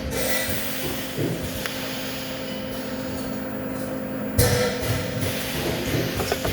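Steady machine hum in a welding shop, with a sharp metallic clank about four and a half seconds in.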